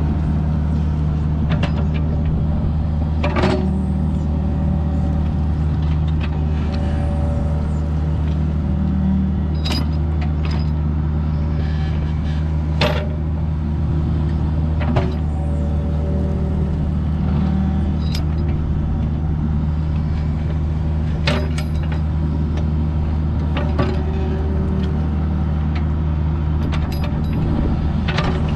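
Mini excavator's diesel engine running steadily while digging, with sharp metal clanks every few seconds.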